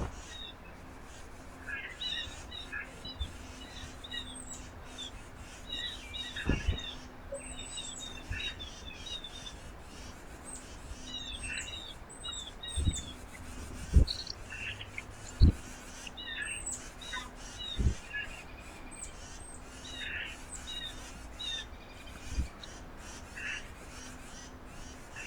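Small birds chirping repeatedly in short, high, falling notes, with a few dull low thumps scattered through, about six in all.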